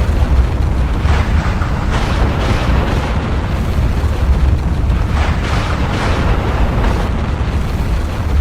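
Volcanic eruption: a steady deep rumble with irregular noisy surges about every second.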